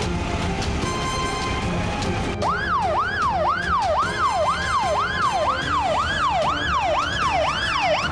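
Emergency vehicle siren starting suddenly about two and a half seconds in, sweeping quickly up and down about twice a second, over background music.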